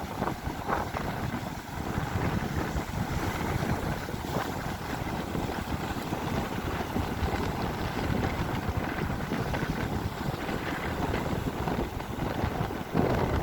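Wind buffeting the microphone: a steady rushing noise with heavy low rumble that swells and dips.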